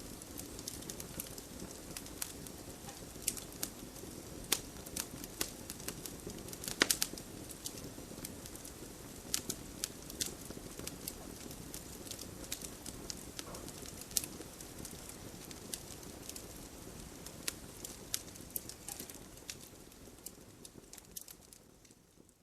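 Wood fire crackling: irregular sharp pops and snaps over a low, steady rumble, with a burst of louder pops about a third of the way in, fading out near the end.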